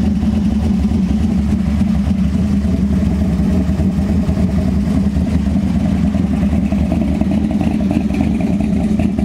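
Modified 1955 Chevrolet two-door's engine idling steadily, a loud, low, even rumble.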